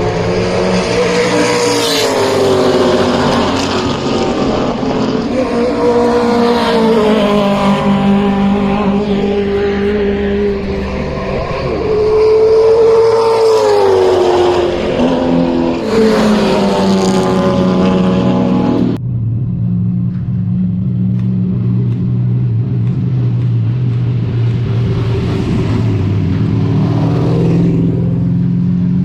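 Historic muscle car's V8 racing engine heard on board at full race pace, its note rising and falling repeatedly as it accelerates and shifts. About two-thirds of the way through, the higher part of the sound cuts off suddenly and a lower, steadier engine note carries on.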